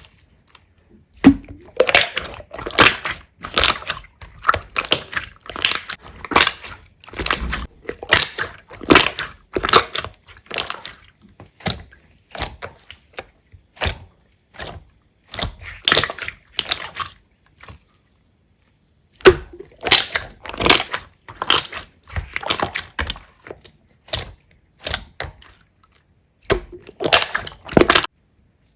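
Slime being pressed and squeezed by hand, making a run of sharp, crackling, popping squishes about two a second. There is a pause of about a second and a half roughly two-thirds of the way through.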